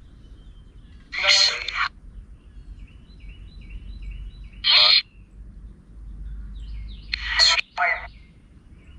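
Birds calling: three loud harsh calls about a second, four and a half and seven seconds in, each about half a second long, with a smaller bird's faint short chirps repeating in between.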